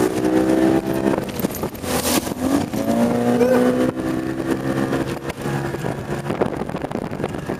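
Bass boat outboard motor running at speed through chop, its pitch breaking off and coming back as the hull rides the waves. There is a short rush of noise about two seconds in, and after about six seconds the engine tone sinks under wind noise.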